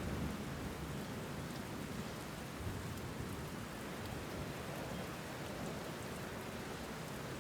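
Steady rain falling, an even hiss of drops. A low rumble of thunder eases away at the start.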